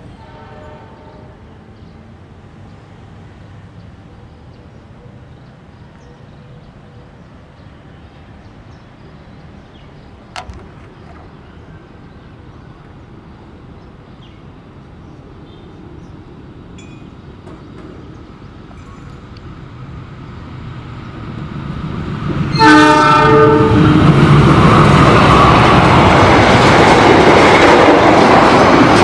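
Passenger train approaching, at first a faint distant rumble that slowly grows over about twenty seconds. The locomotive gives one short horn blast about three-quarters of the way in, and the train then passes close by at speed, a loud, steady rushing noise.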